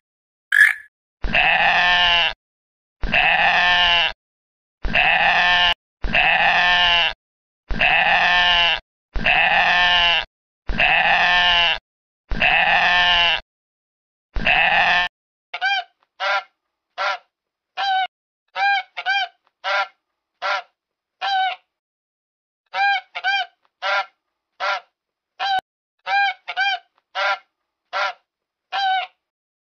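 Animal calls: about eight long, evenly spaced calls of about a second each, then from about halfway many short, quick honks in small clusters.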